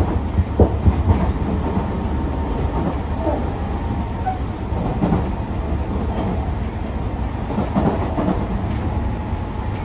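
Interior running noise of a Tobu 60000 series electric train at speed: a steady rumble of wheels on rail, with a few knocks from rail joints in the first second or so and a faint steady whine.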